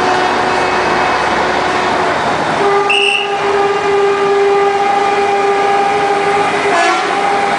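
Classic truck horn held in long steady blasts over the running of truck engines. A fainter blast sounds for the first two seconds, then a louder one from about two and a half seconds until near seven seconds.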